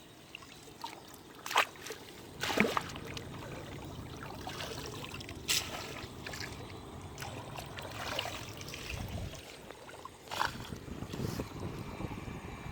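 Water sloshing and splashing, with a few sharper splashes, the loudest about one and a half and two and a half seconds in.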